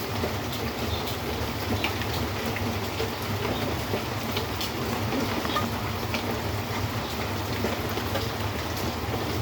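Steady rain falling, with individual drops ticking now and then over a constant low rumble.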